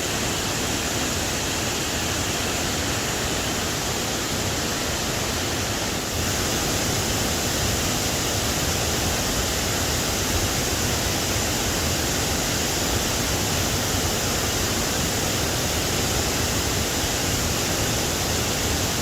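Steady rush of fast-flowing creek water tumbling over rocks, a constant roar that steps up slightly about six seconds in.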